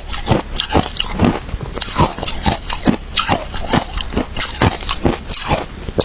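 Shaved ice being bitten and chewed: a steady run of sharp crunches, about three a second.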